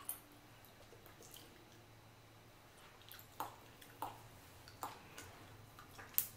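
Close-miked chewing of boiled chicken: a handful of soft, wet mouth clicks and smacks spaced about a second apart, the sharpest near the end.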